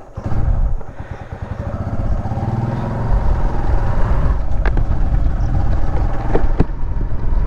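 Motorcycle engine running with a low, even putter, growing louder from about three seconds in as it picks up. A few sharp clicks come through in the second half.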